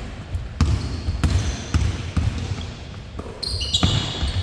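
Basketball bouncing on a court floor during play, sharp thuds about twice a second, with high shoe squeaks on the floor near the end.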